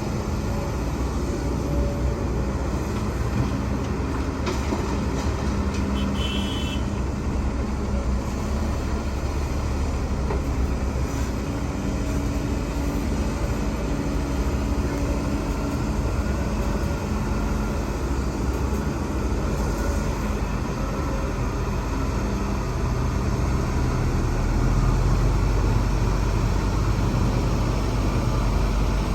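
Heavy diesel earthmoving machinery running steadily under work, with a low engine note that swells louder and deeper near the end.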